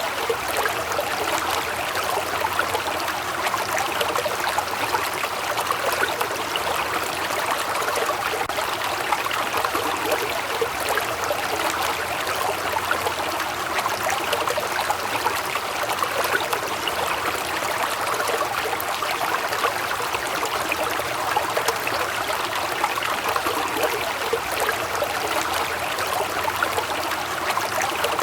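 Waterfall: steady rushing and splashing of falling water, even and unbroken.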